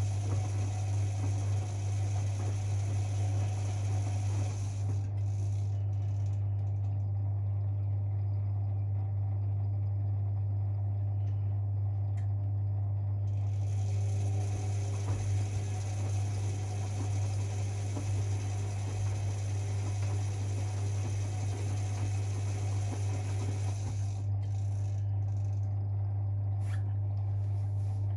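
Privileg 5020 front-loading washing machine running an Easy-Care 40 °C wash, its motor turning the drum with a steady low hum. A high hiss drops away about five seconds in and comes back some eight seconds later.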